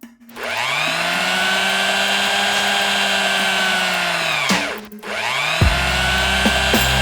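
A small electric motor whirring up to speed, running steadily, then winding down about four and a half seconds in before spinning up again.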